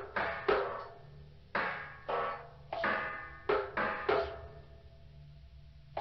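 Struck percussion, about eight irregular strikes, each ringing with several pitches and dying away, followed by a quieter pause near the end.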